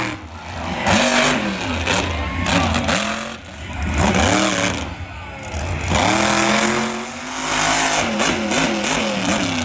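Monster truck engine revving hard and backing off again and again, its pitch climbing and dropping in surges every couple of seconds.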